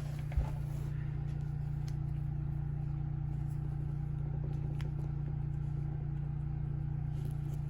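Honda generator engine running at a steady hum, with one short knock about half a second in.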